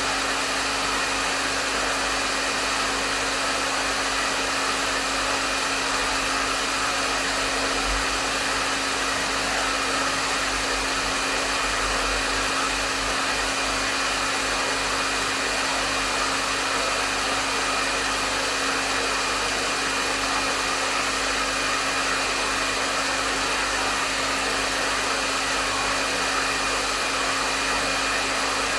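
Hair dryer running steadily on a medium setting: an even rush of airflow with a constant motor hum, without change.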